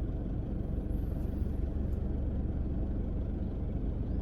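Car engine running, heard from inside the car as a steady low rumble.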